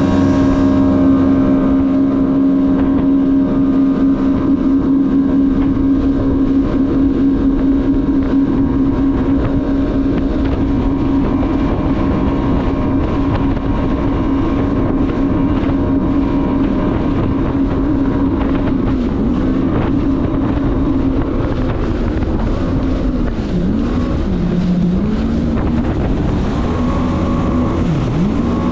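Jet ski engine running at a steady cruising speed, with wind and water noise on the microphone. Near the end the engine pitch dips and comes back up a few times as the throttle is eased off and opened again.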